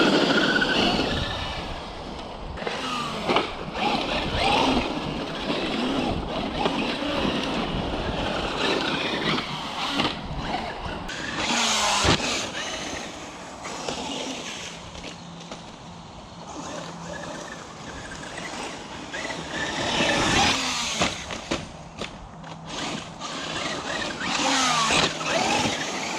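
Traxxas Unlimited Desert Racer RC truck driving: its electric motor whines up and down with the throttle over a noisy rush of tyres and chassis, swelling in several surges.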